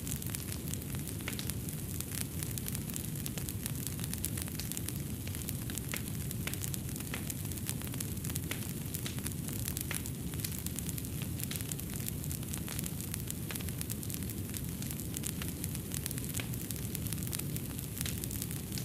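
Fireplace fire crackling: frequent small snaps and pops over a steady low rumble of burning.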